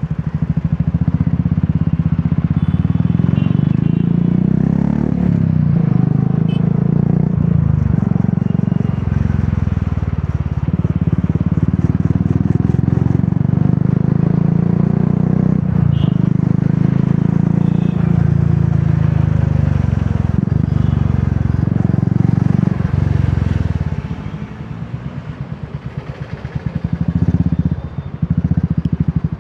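Royal Enfield Classic 350's single-cylinder engine through an aftermarket Dolphin exhaust, running on steady throttle while riding, with several brief dips and pitch shifts. About three-quarters of the way through, the throttle closes and the engine drops to a quieter beat, with one short rev near the end.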